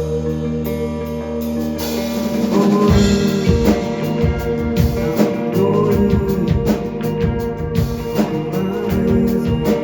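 Live rock band playing: held guitar chords over bass, with the drum kit coming in about three seconds in and keeping a steady beat.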